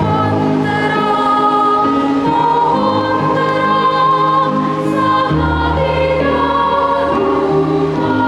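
Children's choir singing a Christmas carol in held, sustained notes over a low instrumental accompaniment.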